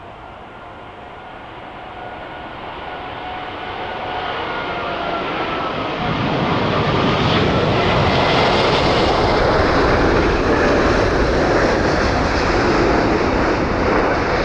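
British Airways Airbus A380 on final approach, its four Rolls-Royce Trent 900 engines growing steadily louder as it comes in. A faint engine whine sags slowly in pitch, and a loud roar takes over about halfway through as the jet passes close overhead.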